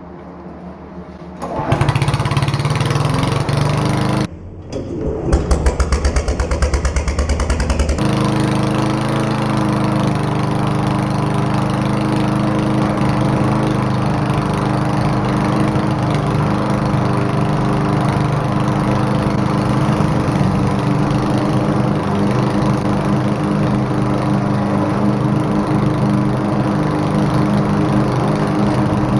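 Many small petrol engines running at once: lawn mowers, go-kart engines and other small machines. The loud engine noise starts about a second and a half in and shifts abruptly twice in the first eight seconds. After that it settles into a steady, dense din of several engines together.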